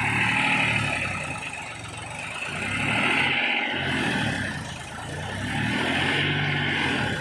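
Mahindra 265 DI tractor's three-cylinder diesel engine working hard under load, its speed swelling and sagging about every three seconds, then falling away sharply near the end.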